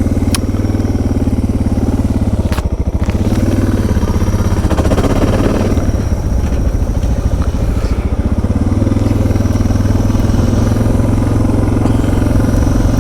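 Suzuki DR650's single-cylinder four-stroke engine running steadily under way, its low note dipping briefly about two and a half seconds in. Two sharp clicks come through, one near the start and one with the dip.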